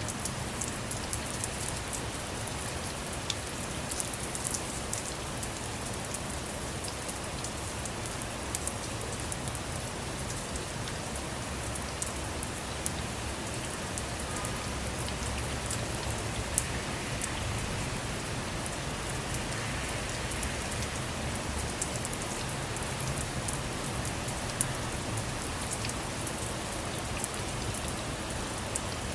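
Steady rain falling on a vehicle, with many small drop ticks over a constant hiss.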